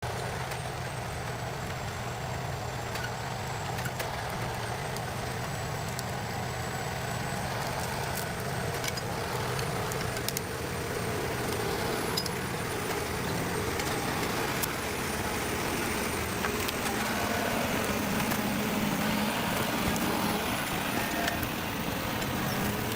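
Heavy forestry machine's engine running steadily and slowly growing louder, with scattered clicks and knocks.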